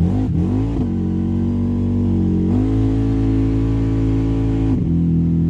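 Rebuilt engine of an old Honda riding machine running under way, its pitch dipping and rising in the first second, stepping up about two and a half seconds in and dropping back near the end as the throttle changes.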